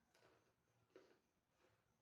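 Faint chewing, with a few soft crunches of food in the mouth, about three in two seconds.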